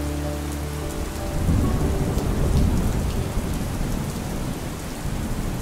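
Steady rain with a rolling rumble of thunder, loudest from about a second and a half in to about three and a half seconds.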